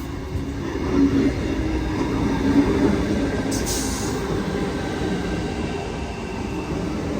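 Sydney Trains Tangara electric multiple unit pulling into the platform: a steady rumble with a low whine. A short hiss comes about halfway through.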